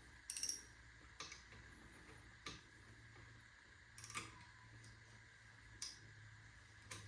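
Scattered light clicks and taps of hand tools on a small engine's parts, about seven sharp ticks a second or more apart, over a faint steady hum.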